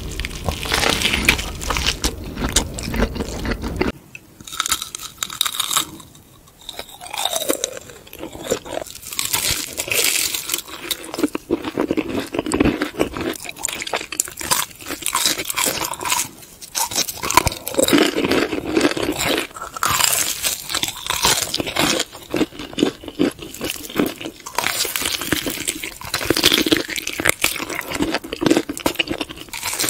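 Close-miked crunching and chewing of Hot Cheetos-crusted fried foods being bitten and eaten, in irregular crisp bites. A low hum under the first few seconds stops about four seconds in.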